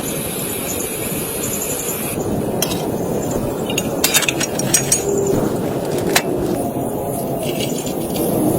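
Rain falling on a tent: a steady dense patter, with a few sharper taps of heavier drops in the middle.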